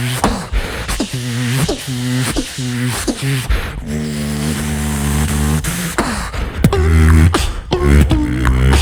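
Beatbox duo performing live: sharp mouth-made drum hits in a steady groove over a hummed, pitched bass line, with a deeper, louder bass coming in about seven seconds in.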